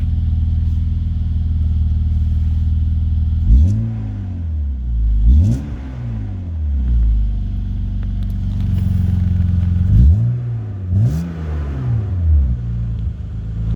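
BMW E36 328i's 2.8-litre straight-six idling through a newly fitted MagnaFlow muffler, then revved four times in two pairs of quick blips, each climbing and falling back to idle.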